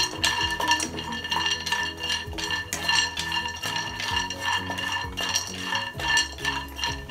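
A slotted wooden spatula stirring cashews and almonds in a non-stick kadhai as they dry-roast, with repeated scrapes and knocks against the pan and the nuts clattering.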